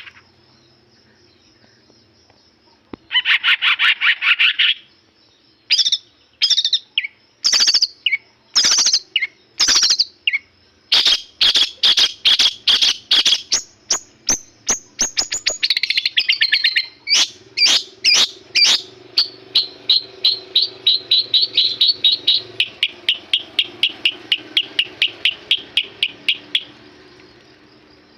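Long-tailed shrike (cendet) in full, loud song: after a short pause a rapid trill, then a varied string of sharp chirps and chattering notes, ending in a long fast run of repeated notes that stops near the end. A faint steady high tone sits underneath.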